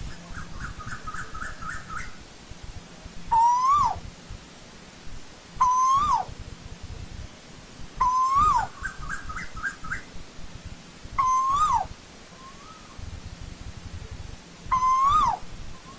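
Asian koel calling: five loud, clear upslurred notes that drop off sharply at the end, repeated every few seconds, with a quicker run of short, higher notes near the start and another between the second and third calls.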